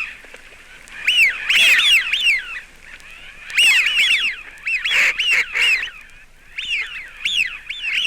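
A flock of Eurasian wigeon drakes giving their slurred whistles, many short rising-and-falling calls overlapping in bursts of several birds at once, with brief pauses between the bursts.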